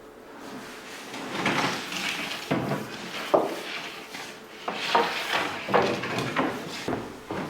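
Bakery work noise: a run of irregular knocks, scrapes and clatters of tools and trays being handled, several a second, beginning about a second in.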